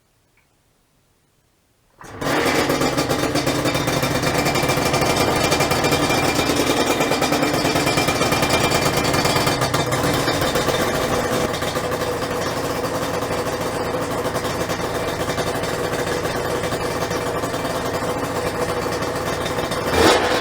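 Two-stroke parallel-twin engine of a Suzuki RG250Γ running through Sugaya expansion-chamber exhausts with freshly overhauled silencers: it comes in suddenly about two seconds in and idles steadily, with a short blip of the throttle near the end.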